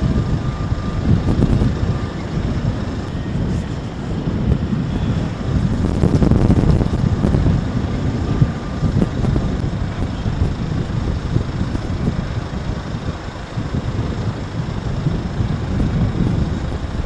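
Steady, loud low rumble that swells and eases every few seconds, with wind buffeting the microphone.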